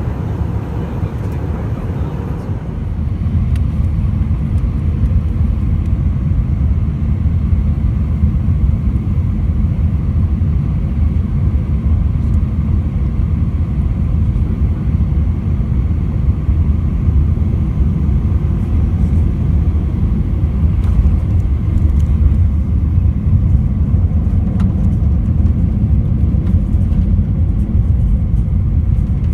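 Steady low rumble inside the cabin of an Airbus A319 airliner, getting louder about two and a half seconds in.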